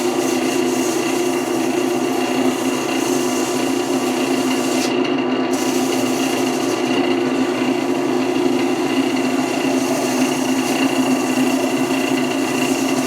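Wood lathe running steadily with sandpaper held against the spinning wooden workpiece: a steady motor hum under the hiss of abrasive rubbing on wood. The high hiss lets up for about half a second around five seconds in.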